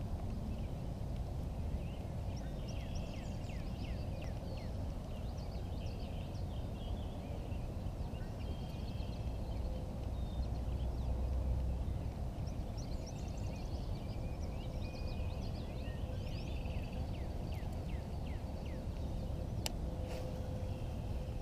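Several birds singing and calling, with many quick downward-sliding chirps, over a steady low rumble; two sharp clicks near the end.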